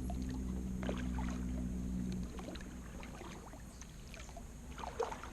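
Kayak paddle strokes: the blade dipping and splashing, with water dripping off it, strongest about a second in and near the end. Under it is a low steady hum that fades about two seconds in.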